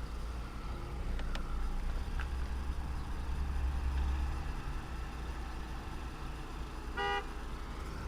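Low rumble of a car running, swelling for a few seconds about a second in, with a single short car-horn beep near the end.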